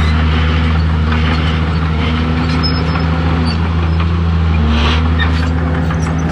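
Diesel engine of heavy earthmoving machinery, a bulldozer or dump truck, running steadily with a deep, even drone and mechanical noise over it.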